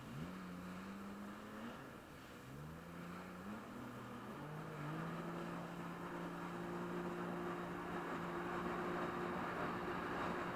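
Jet ski engine revving up twice, then holding a steady speed, with a rushing noise of water and wind that grows louder toward the end.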